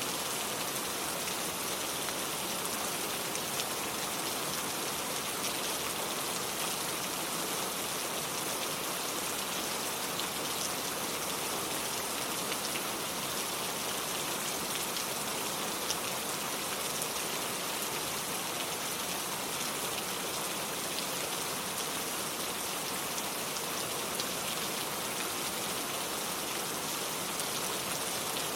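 Steady rain falling, an even hiss with many small drop ticks scattered through it and no change in intensity.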